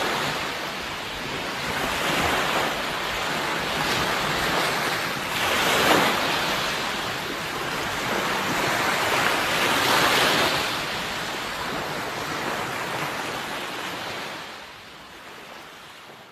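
Sea waves breaking and washing in, in repeated surges a few seconds apart, fading away near the end.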